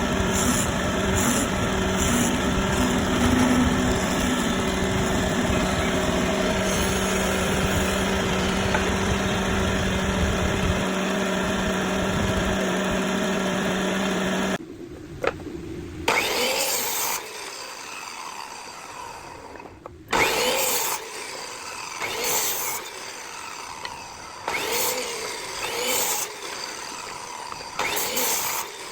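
A power tool's motor runs steadily, then cuts off abruptly about halfway through. After that comes a series of rubbing strokes on wood, roughly one a second, as from hand sanding or rasping.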